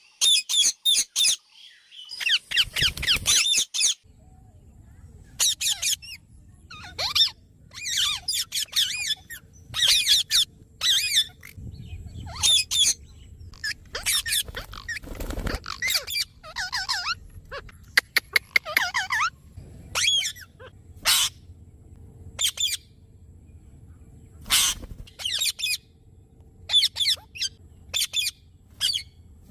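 Ring-necked parakeet calling: a long run of short, high-pitched squawks and chattering calls in quick bursts, with a few longer warbling runs.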